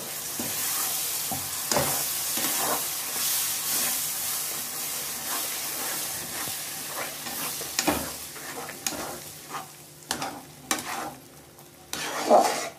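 Tomato purée sizzling in hot oil and spice masala in a kadhai while a spatula stirs it in. The sizzle thins out in the second half, leaving separate scrapes of the spatula against the pan and one louder knock near the end.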